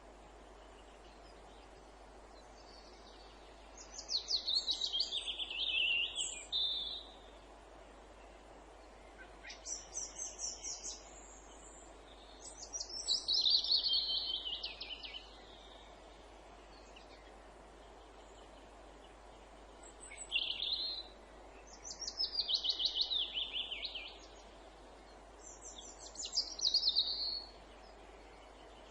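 Songbirds singing in a wood: six short, fast trilled phrases that mostly drop in pitch, separated by brief pauses, over a faint steady background hiss.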